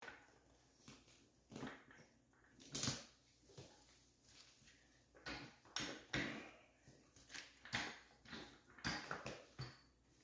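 Faint, irregular clicks and knocks, about fifteen short ones, from a floor jack and its ratchet strap being worked to push an ATV tire off its bead.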